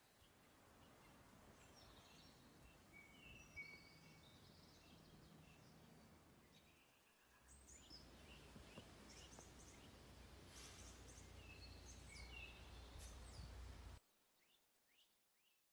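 Faint evening outdoor ambience: scattered bird chirps and calls over a low rumble, cutting off to silence near the end.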